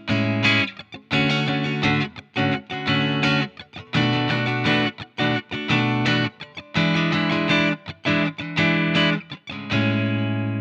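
Electric guitar played through a BOSS ME-90's AIRD "Twin Combo" preamp, a model of a Fender Twin Reverb amp: chords played in short stabs with brief gaps, then a chord left to ring near the end.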